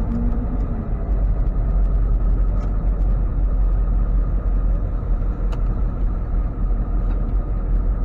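Ford F-550 tow truck running at low speed: a steady low rumble of engine and road noise.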